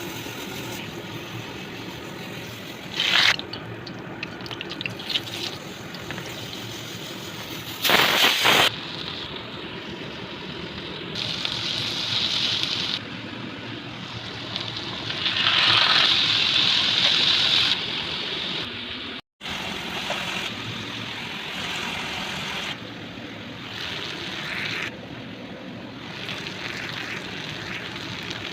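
Watery kitchen sounds while cooking: a steady liquid hiss with several louder surges, broken by a sudden cut about two-thirds of the way through.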